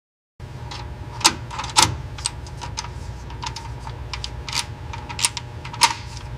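Irregular sharp clicks, a few each second, over a steady low hum that starts abruptly.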